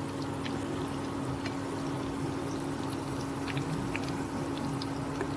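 Grated potato, carrot and egg patties shallow-frying in oil in a pan: a steady sizzle with scattered small pops and crackles, over a steady low hum.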